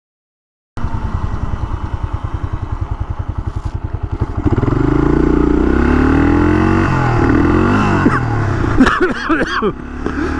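Honda XL500's single-cylinder four-stroke engine idling with an even beat, then revving up and pulling away about four seconds in, its pitch rising and falling through the gears. Near the end it revs in short, uneven swells.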